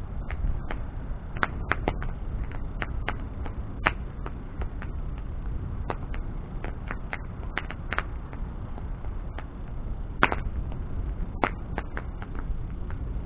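Bonfire burning, with irregular sharp crackles and pops over a low steady rumble. The loudest pops come about four seconds and ten seconds in.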